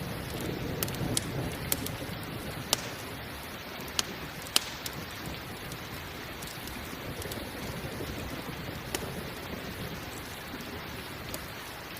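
Steady rain mixed with a campfire crackling. Sharp pops from the fire are scattered irregularly through, the loudest about four and a half seconds in, over a low rumble that eases after the first few seconds.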